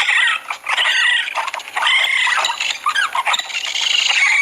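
Raccoon calls: a steady run of high-pitched squeals and chitters that waver up and down in pitch.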